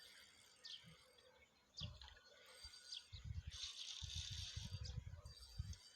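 Birds chirping, a few short, sharp falling calls about a second apart, over a faint outdoor hiss. Irregular low rumbling comes in about halfway through.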